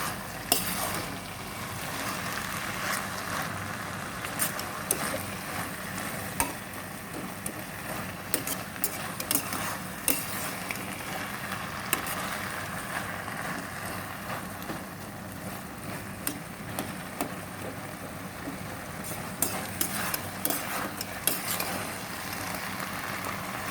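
Spiced chicken filling frying in a pan, with a steady sizzle as the last of its water cooks off. A spoon stirs and knocks against the pan in scattered clicks.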